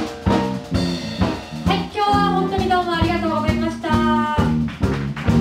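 Jazz quartet playing live: drum kit, double bass and piano under a melody line that slides downward about two seconds in.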